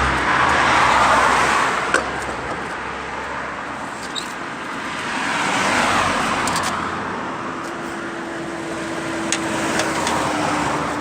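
Road traffic: two cars passing by, each rising and fading, the first about a second in and the second around the middle.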